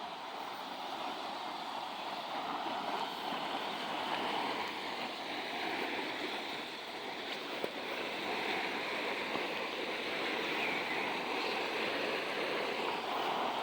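Running water of a river, a steady rushing that grows slightly louder.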